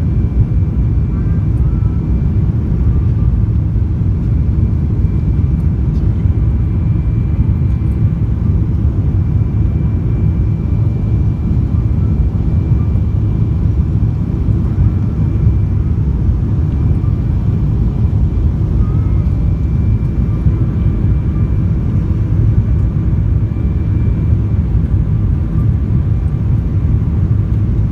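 Steady low roar of a Boeing 777's engines and rushing air, heard from inside the passenger cabin as the airliner descends on approach with its flaps extending for landing, with faint thin whining tones running through it.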